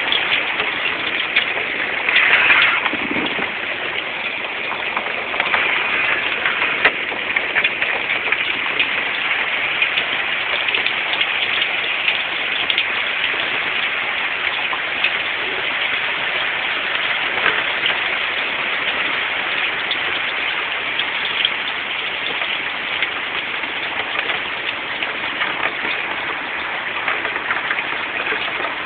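Hail falling steadily: a dense patter of many small ticks as hailstones strike the ground.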